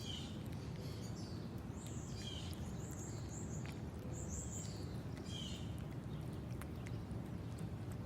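Small birds chirping in short, high, falling calls, several close together in the middle, over a steady low rumble of outdoor background noise, with a few faint scattered ticks.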